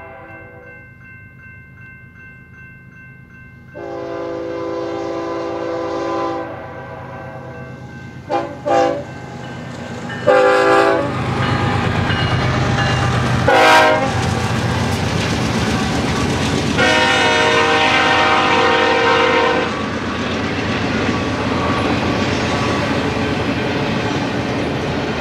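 BNSF intermodal freight train approaching and passing close by: the locomotive's air horn sounds a series of long and short blasts, faint at first and growing louder, with a long blast about two thirds of the way through. From about ten seconds in, the rumble and clatter of the locomotives and double-stack well cars rolling past builds and runs on under the horn.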